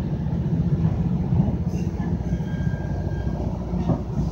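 Freight train cars passing close alongside, heard from inside a moving passenger coach: a steady low rumble of wheels on rail, with a faint thin squeal for about a second and a half in the middle.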